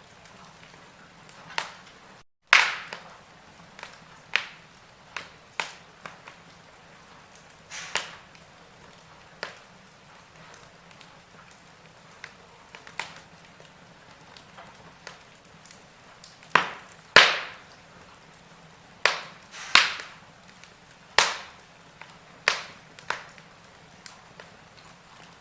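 Wood fire in a fireplace crackling: irregular sharp pops and snaps, some much louder than others, over a faint steady hiss.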